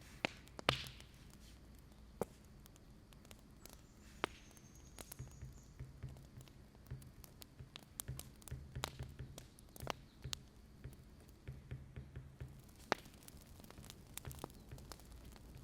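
Wood fire crackling, with irregular sharp pops and clicks over a soft, uneven low rumble.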